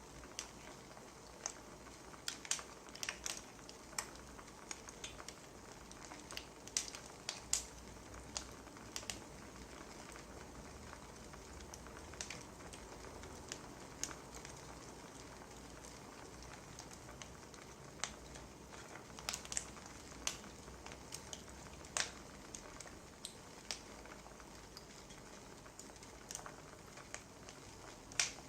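Wood fire crackling: a faint steady hiss with irregular sharp pops and snaps.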